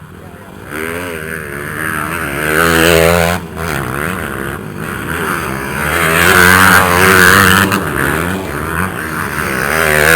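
Dirt bike engine revving up and down as it is ridden, the pitch climbing and dropping again and again, loudest about three and seven seconds in.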